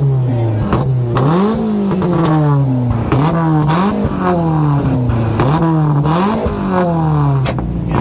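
Car engine being revved over and over, each rev a quick climb in pitch followed by a slower fall, about five times.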